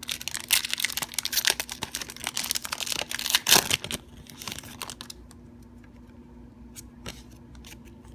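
Foil Pokémon booster pack wrapper crinkling and tearing as it is opened, loudest about three and a half seconds in. After about four seconds only faint, scattered ticks of handling remain.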